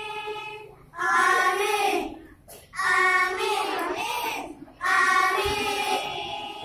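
Children's choir singing an Islamic song in three phrases, each starting strongly and separated by short breaks.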